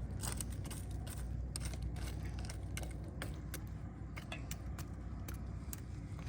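Irregular light clicks and clinks over a steady low rumble.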